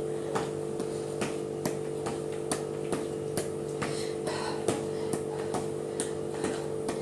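Shoes tapping a hard floor in a steady rhythm, about two and a half steps a second, from the toy soldier exercise (marching straight-leg kicks), over a steady low hum.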